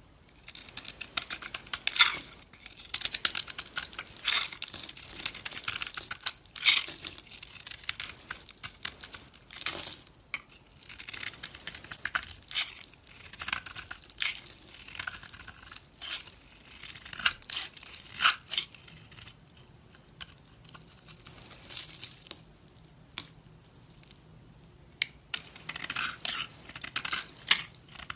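A knife cutting into dry soap: crisp, crunchy crackling and scraping in runs, with short pauses between cuts.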